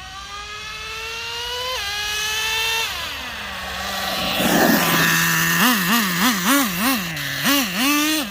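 Traxxas Revo 3.3 nitro RC truck engine revving up in a long climb, with a short dip in pitch partway through as the 2-speed transmission shifts. It then drops back toward idle. A brief burst of hiss comes about halfway, followed by a run of quick, repeated throttle blips, about two a second.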